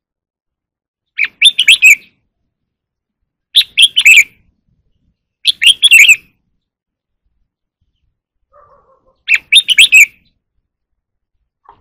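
Red-whiskered bulbul singing the short phrase that keepers call "ché kích bổi": four quick bursts of rapid notes, the first three about two seconds apart and the last after a longer pause.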